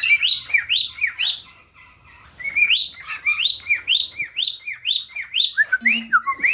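Male white cockatiel singing his courtship song to a female: a run of quick rising whistled chirps, about three a second, with a short pause about a second and a half in.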